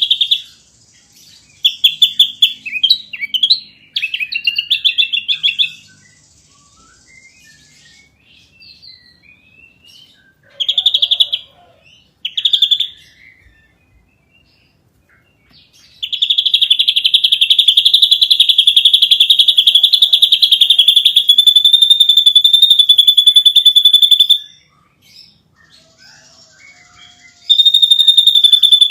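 Ashy drongo singing: short chattering and whistled phrases, then a long, fast, high-pitched rattling trill of about eight seconds. A second trill starts near the end.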